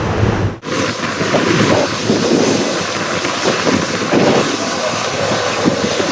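Wind buffeting the microphone in gusts, with a steady outdoor rumble underneath; the sound briefly drops out about half a second in.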